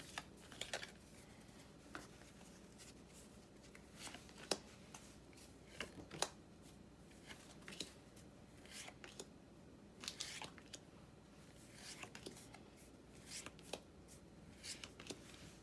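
Pokémon trading-card booster pack being handled: faint, irregular crinkles of the foil wrapper and soft clicks and slides of cards being sorted, scattered through with short pauses.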